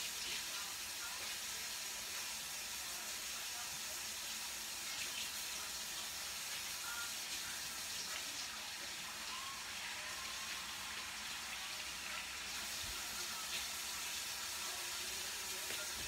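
Crab cakes frying in a shallow pan of hot oil: a steady sizzling hiss.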